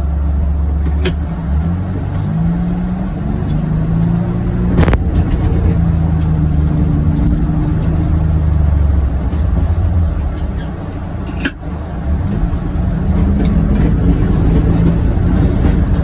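John Deere Gator utility vehicle's three-cylinder gas engine running under load, heard from inside its plastic cab, its pitch rising and falling several times as the throttle changes. A few sharp knocks or rattles sound over it, about a second in, near five seconds and past eleven seconds.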